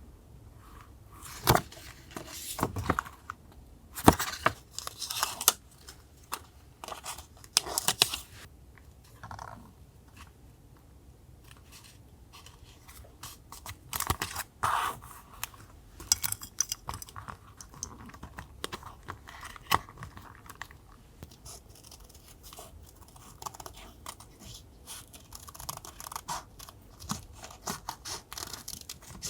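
Paper being handled and torn: irregular short crisp rips, rustles and scrapes of paper sheets, in louder clusters early on and softer handling later.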